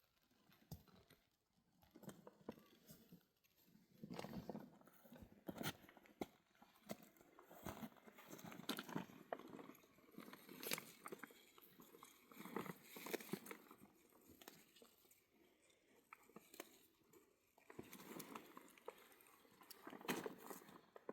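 Faint, irregular crunching and clicking in uneven clusters with short pauses between.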